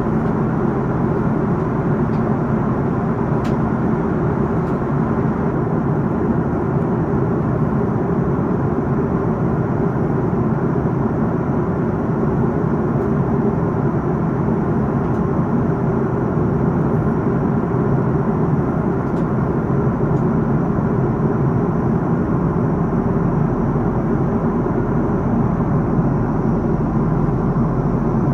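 Steady cabin noise of an Airbus A330-300 airliner in flight: an even, low rush of engine and airflow noise that does not change.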